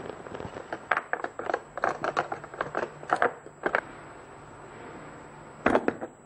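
An adjustable wrench clicking and clattering against a hard plastic tool case as it is worked out of its moulded slot: a quick run of sharp clicks, then a pause and a couple of louder knocks near the end.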